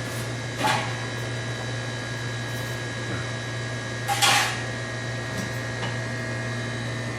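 Steady electric hum of the oak-firewood oven grill's machinery, its blower and the motor turning the meat baskets, with steady high tones over it. Two short hissing noises come about half a second in and about four seconds in.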